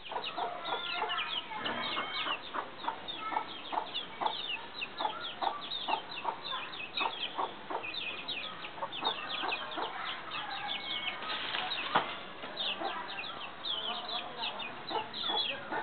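Chickens in a flock: many chicks peeping in short, high, falling calls over one another, with hens clucking lower down. A single sharp click about twelve seconds in.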